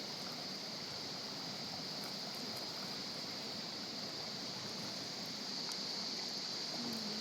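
Fast mountain river rushing over rocks, a steady, unbroken sound of flowing water.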